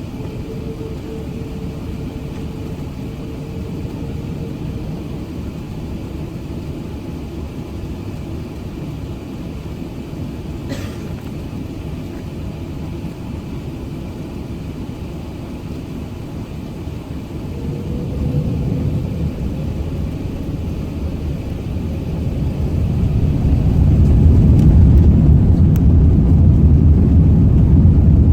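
Airbus A380-800 engines and airframe heard inside the cabin as a steady low rumble that builds in two steps, once around two-thirds of the way through and again near the end, as the engines spool up towards take-off power.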